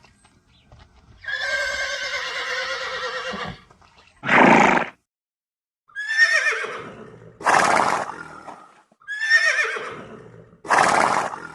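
Horse whinnying three times. The first call is long and the next two are shorter and fall in pitch, and each is followed by a short, rough burst of breath.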